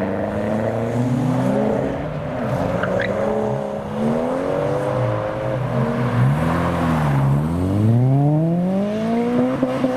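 Car engines revving and accelerating past, the pitch climbing and dropping several times as the revs rise and fall, with a long climb in revs near the end.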